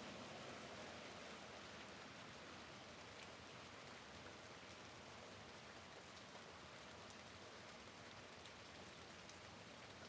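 Faint, steady rain with scattered drops ticking.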